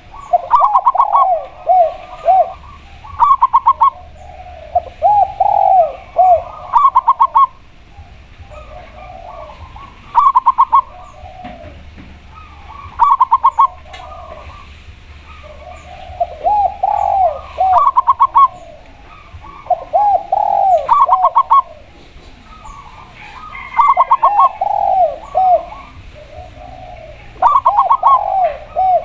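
A spotted dove and a zebra dove cooing in turn and overlapping. Short bursts of quick, higher notes alternate with lower, rounded coo notes, one phrase every couple of seconds.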